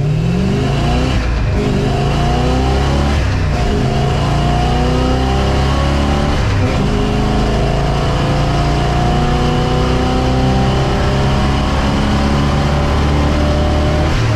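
Classic car's engine at full throttle on a drag-strip pass, heard from inside the cabin: the pitch climbs, drops back and climbs again as the car pulls through the gears.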